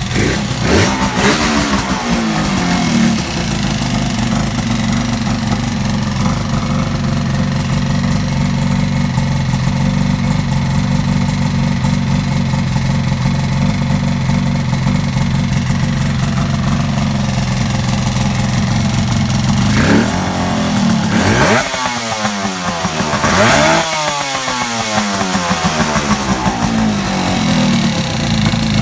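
Yamaha RZ250R fitted with a TZR250 1KT two-stroke parallel-twin engine, running: a rev that falls back to idle near the start, a long steady idle, then revved up and dropping back several times in the last third.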